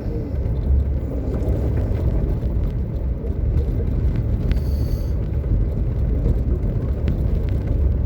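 Steady low rumble of a vehicle's engine and tyres, heard from inside the cabin while driving slowly on an icy road.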